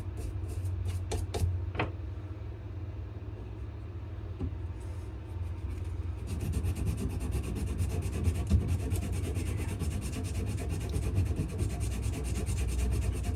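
Hand sanding of a wenge and maple knife handle: a few light clicks and knocks, then about six seconds in, rapid back-and-forth abrasive strokes begin and keep going, over a steady low hum.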